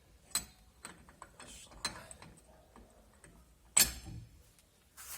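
Irregular metallic clicks and clinks from hand tools working the hub nut of a car's rear brake drum, with a sharper metal knock a little under four seconds in.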